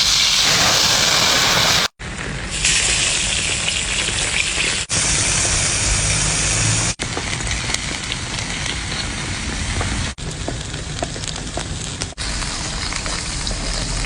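Seafood sizzling and crackling as it cooks: a steady hiss with small pops, broken by quick cuts every two to three seconds.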